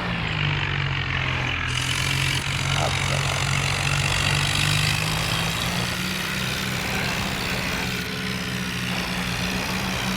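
Heavy diesel engine running hard under load, its pitch sagging at the start and climbing back up about six seconds in.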